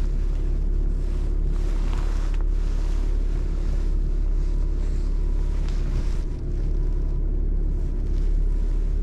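Tow truck engine running with a steady low rumble as the truck maneuvers slowly, heard from inside the cab.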